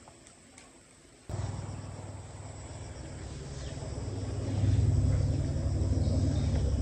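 A low engine rumble that starts abruptly about a second in and grows louder a few seconds later, with faint insect chirping underneath.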